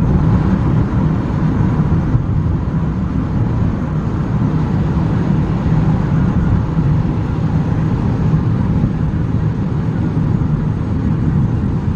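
Steady low rumble of a car driving in heavy rain, heard from inside the cabin: road and engine noise with a fainter hiss of rain on the body.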